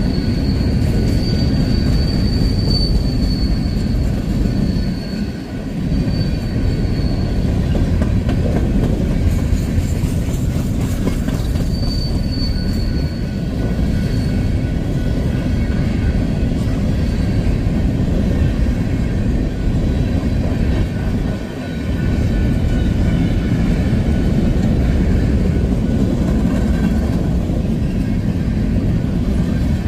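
Empty coal cars of a freight train rolling past: a steady rumble and rattle of steel wheels on the rail. A thin, high wheel squeal runs through the first seven seconds or so and comes back briefly about twelve seconds in.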